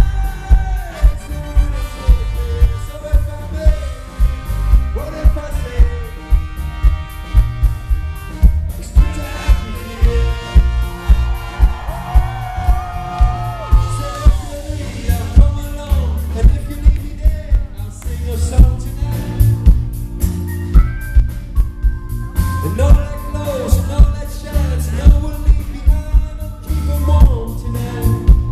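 Live band playing an upbeat song, with a steady drum beat under melody lines.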